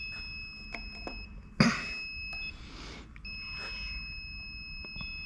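Insulation resistance tester giving a steady high-pitched beep while it tests a lithium-ion battery module's insulation, in three long stretches with short breaks. A sharp knock about a second and a half in is the loudest sound.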